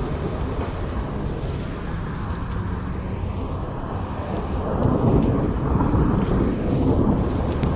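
Thunderstorm: low rolling thunder over steady rain, the rumble swelling about five seconds in and easing near the end.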